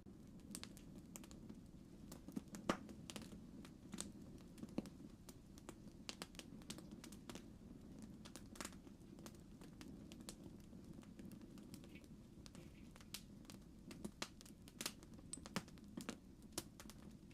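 Campfire crackling faintly: irregular pops and snaps over a low, steady rumble, with one sharper pop a little under three seconds in.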